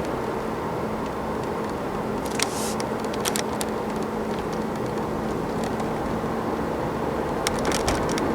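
NR class diesel-electric locomotive running steadily with a low hum, with a few sharp clicks about two and a half seconds in, about three and a half seconds in and near the end.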